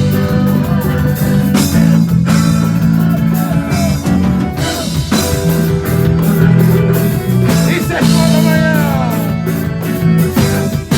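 A band's song playing in an instrumental passage: guitar over a steady bass and drum beat, with a few falling pitch slides about eight seconds in.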